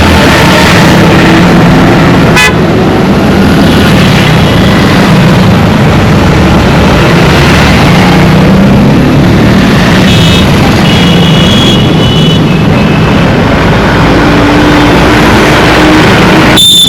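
Dense road traffic: a steady wash of engine and tyre noise, with a sharp click about two and a half seconds in. Several short horn toots come about ten to twelve seconds in, and a loud horn starts near the end.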